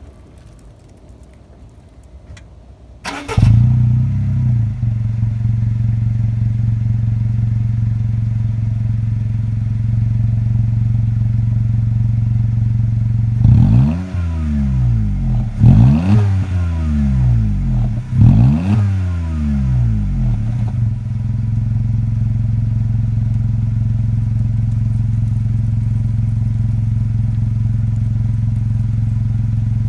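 Honda N-Box's 660 cc three-cylinder engine, breathing through a Kakimoto GTbox 06&S aftermarket muffler, starting about three seconds in and settling to a steady idle. Around the middle it is revved three times, the pitch rising and falling each time, then drops back to idle.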